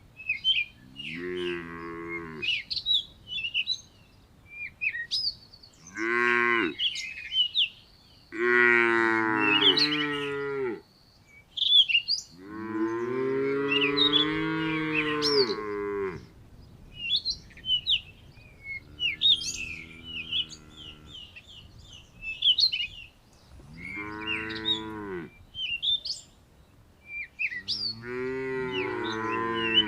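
A cow mooing again and again, about seven calls, the longest lasting about four seconds midway. Small birds chirp between the moos.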